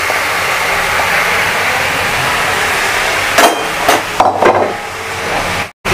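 Marinated chicken pieces sizzling in hot oil in a pan, a steady hiss. About three and a half seconds in, a quick run of four sharp knocks as utensils are knocked against the pan.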